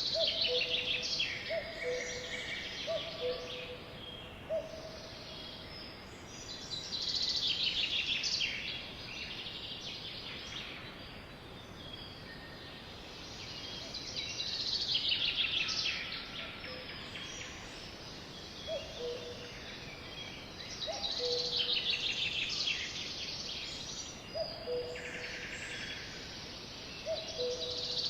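Sparrows singing: a high, fast trilled song phrase of about two seconds comes back roughly every seven seconds. Between the songs, a lower two-note call repeats several times.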